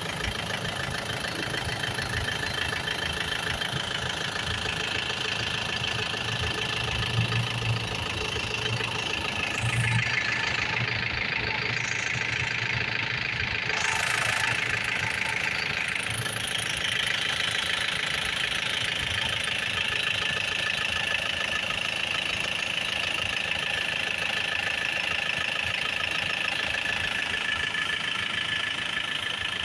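Isuzu Sportivo diesel engine idling steadily, with a thin steady whine riding above the engine note.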